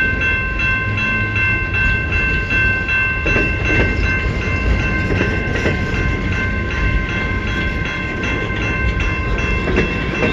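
Long CN freight train rolling past: a steady low rumble of wheels on rail with a few clacks, and a steady high-pitched tone held over it.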